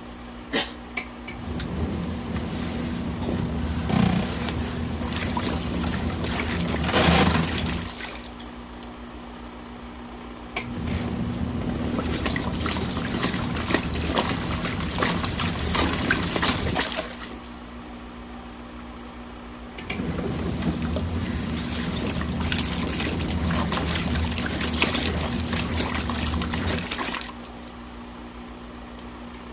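Compact RV washing machine agitating a load in water: the wash action churns and sloshes for about six seconds, stops for about three, and starts again, three times, over a faint steady motor hum.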